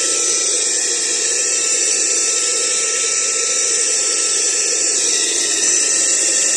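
Aspiring Windstorm 3 car vacuum cleaner running with a long narrow nozzle fitted: a steady high motor whine over the hiss of the air. With this nozzle its suction is weak, and the owner finds it picks up nothing at all.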